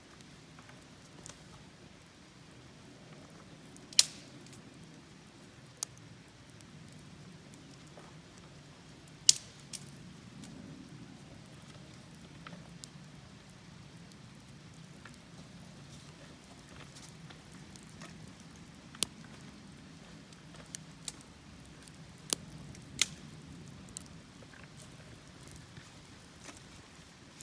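Wood campfire burning, with scattered sharp pops and crackles over a low steady rushing. The loudest pops come about four seconds in, about nine seconds in, and in a cluster near the end.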